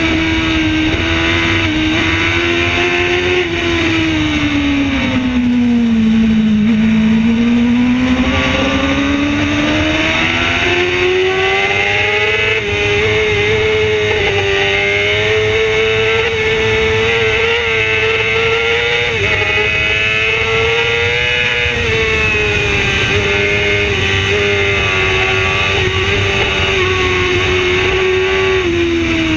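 Racing motorcycle engine heard on board at high revs under hard riding. Its note falls about six seconds in, climbs back and then holds high and steady for the rest of the run.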